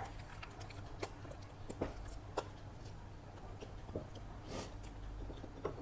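Close mouth sounds of a person eating chicken biryani: soft chewing with scattered short smacks and clicks, over a steady low hum.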